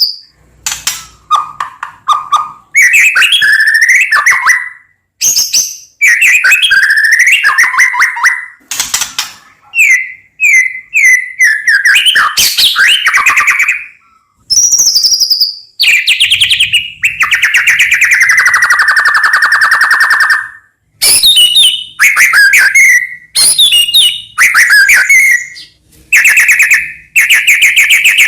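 White-rumped shama (murai batu) singing loudly and continuously in varied phrases with short gaps between them. The phrases mix rapid stuttering note runs, sweeping whistles and one long held whistle about two-thirds through that slowly drops in pitch.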